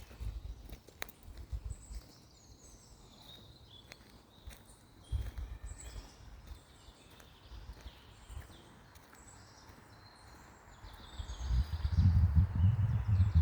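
Small birds singing and chirping, with low rumbling wind gusts buffeting the microphone, strongest near the end.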